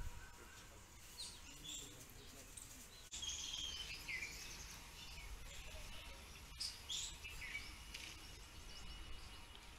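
Small birds chirping, with many short calls and a few falling whistled notes, over a low steady background rumble.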